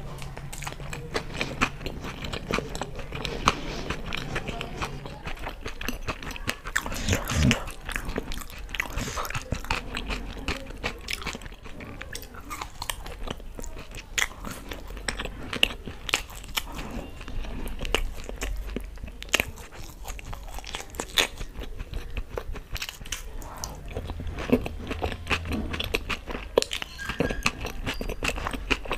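Close-miked chewing and biting of fried pakoras soaked in green chutney, with many irregular small clicks and crunches from the mouth and food.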